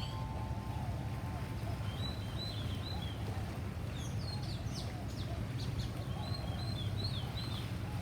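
A bird repeating short high chirping phrases every few seconds, with a cluster of sharp ticks in the middle, over a steady low rumble.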